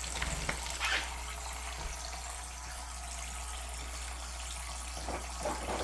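Faucet water running steadily into the birds' bath, an even splashing stream.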